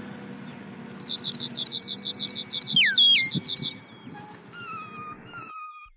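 Wild birds calling: several clear, falling whistled notes, over a fast, evenly repeated high-pitched chirping trill that lasts a couple of seconds. The sound cuts off abruptly near the end.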